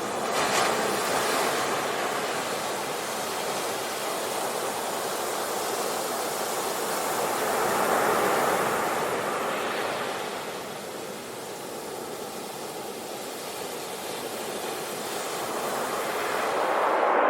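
Sea waves washing in and breaking on the shore, a continuous rush of surf that swells twice, eases off, then builds again near the end.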